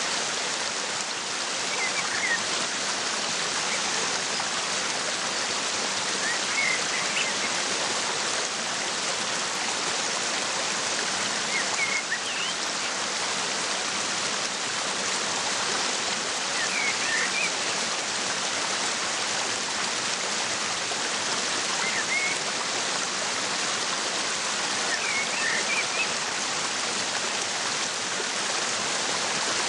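Waterfall rushing steadily, with a bird giving short chirps every four to five seconds.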